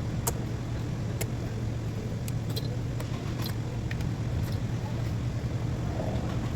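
A car engine running steadily at idle, with a few light metallic clicks and taps scattered over it.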